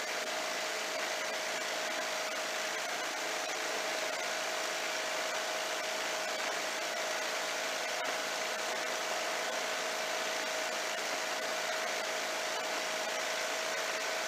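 Legal Eagle ultralight aircraft's engine and propeller droning steadily in cruise flight, mixed with a rush of air, with one steady tone held throughout.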